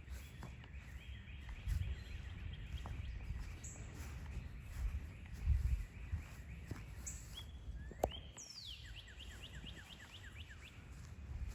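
Small songbirds singing rapid trills of repeated chirps, one at the start and a falling trill about eight seconds in, over a low rumble. A single sharp click comes about eight seconds in.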